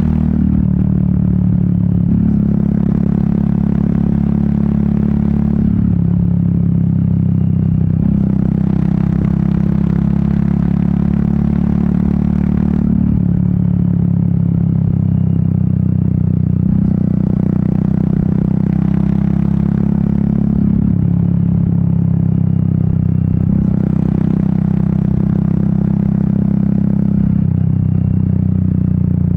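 Royal Enfield Meteor 350's single-cylinder engine and exhaust running under way, the throttle opening and closing every few seconds so the note rises and falls a little.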